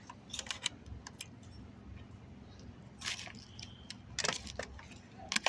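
Eating sounds close to the microphone: scattered small mouth clicks and smacks, with a few short rustles, the longest about three seconds in.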